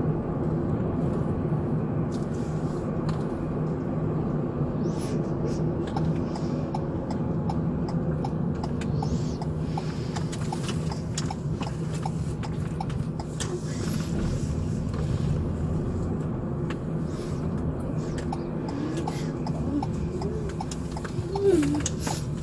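Steady engine and road hum of a moving police patrol car, picked up by its in-car camera, with a run of regular light ticks midway and a short sharp knock near the end.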